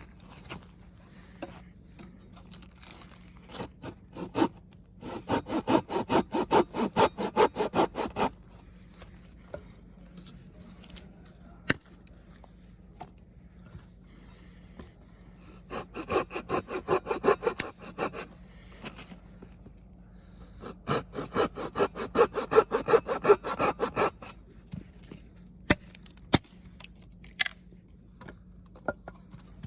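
Hand saw cutting through wood, probably firewood for the campfire, in three spells of quick back-and-forth strokes with short pauses and a few light knocks between them.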